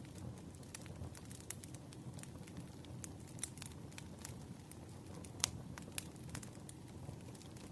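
Wood fire crackling: irregular sharp pops and snaps over a low steady rumble, the loudest pop about five and a half seconds in.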